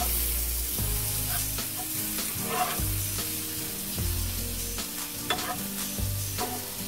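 Chopped tomatoes and onions sizzling in butter in a nonstick frying pan, a steady hiss, while a slotted spatula stirs them with several scrapes and taps against the pan.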